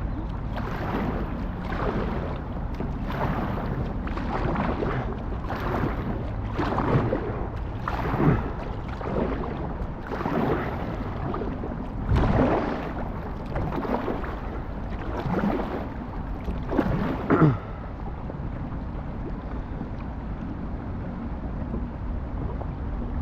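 Kayak paddle blades dipping and splashing in river water, about one stroke a second, stopping about 17 seconds in. A steady low rumble runs underneath.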